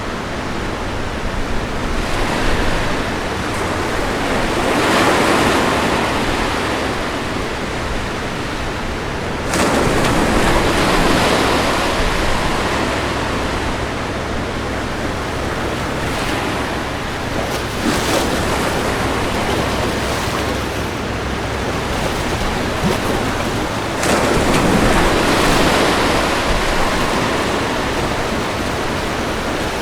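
Ocean waves breaking and washing up on a beach, a continuous rushing wash that swells with each wave. Bigger waves break suddenly about a third of the way in and again near the end.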